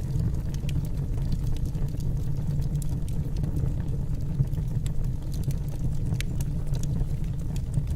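Wood fire burning in a fireplace: a steady low rumble of flames with scattered small crackles and pops from the burning logs.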